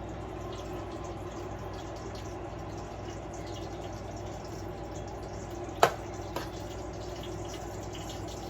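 Steady kitchen background noise, with one sharp click about six seconds in and a softer click half a second later.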